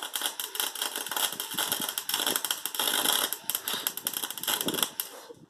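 Wire-feed welder arc crackling and sizzling steadily as a bead is laid, stopping suddenly about five seconds in.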